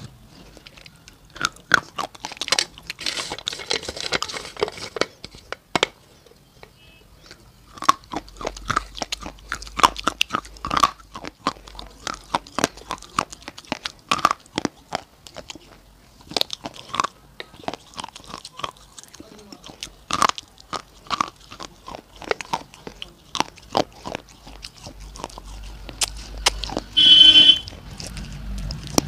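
Close-miked crunching and chewing of hard, chalky slate-pencil sticks coated in a red paste: sharp bites and crunches in quick runs, with a short lull a few seconds in. Near the end a brief, loud squeal stands out above the chewing.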